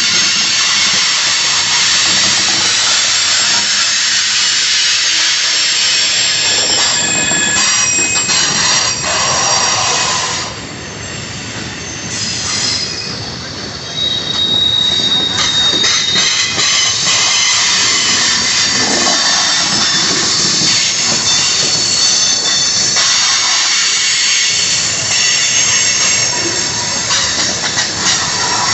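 Freight cars of a manifest train rolling past on the rails, with steady high-pitched wheel squeal coming and going over a continuous rumbling hiss; the sound eases off for a few seconds in the middle.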